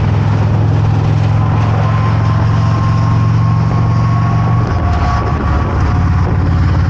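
Harley-Davidson V-twin motorcycle engine running at a steady road speed under wind noise. About two-thirds of the way through, the engine note drops and changes, as with a throttle change or gear shift.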